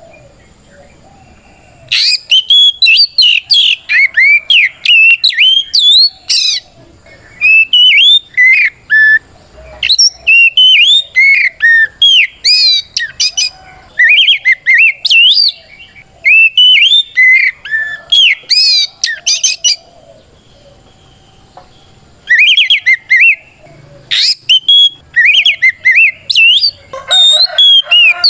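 Oriental magpie-robin (kacer) singing loudly in its full, open 'ngeplong' challenge song, used to call out a rival: rapid runs of sweeping whistled notes in phrases of one to four seconds, separated by short pauses, starting about two seconds in.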